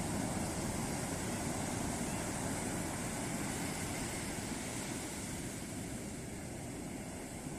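Ocean waves breaking on a beach: a steady rushing wash of surf that eases a little near the end.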